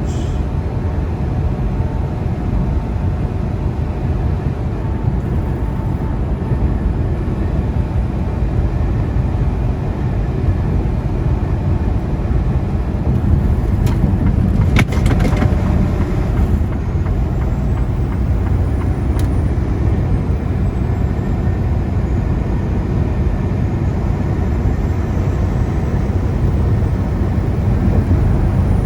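Semi truck's diesel engine and road noise heard from inside the cab at highway speed: a steady low drone. A brief louder rush of noise comes about halfway through.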